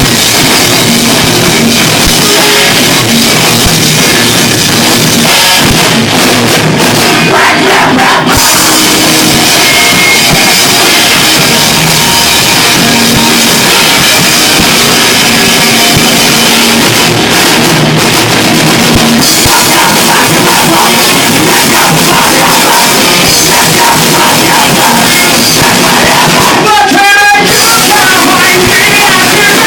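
Rock band playing loudly live, with a pounding drum kit and cymbals.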